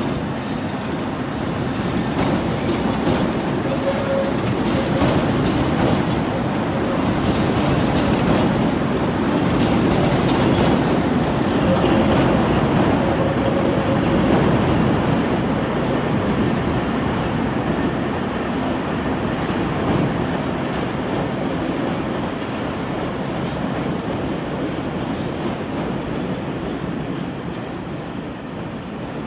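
CTA 'L' rapid-transit train rolling over the elevated interlocking's switches and crossings, wheels clattering over the rail joints with a light wheel squeal in places. It grows louder toward the middle and fades as it passes.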